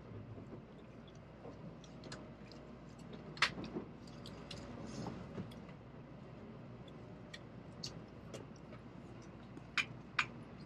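Interior of a Shinkansen bullet train car rolling slowly: a low steady rumble with scattered sharp clicks and ticks, the loudest about three seconds in and two close together near the end.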